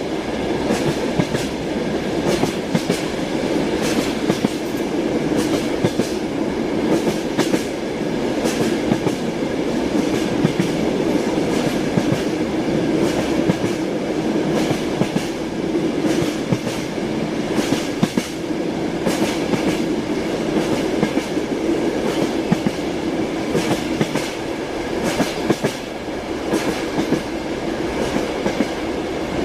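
Train wheels clacking over rail joints in repeated clicks, above a steady running rumble of the moving train.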